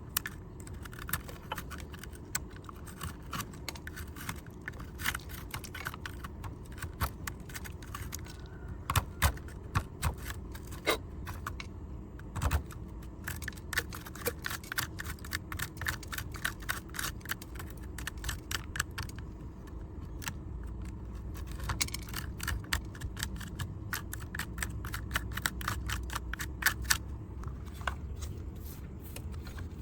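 Rapid small clicks, taps and light scrapes of a diecast model car and cleaning tools being handled, over a steady low hum.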